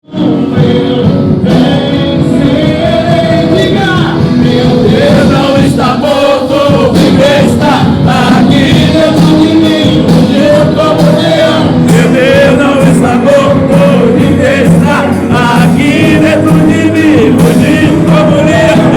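Live worship music: a singer with a band playing a gospel praise song, with drums keeping a steady beat.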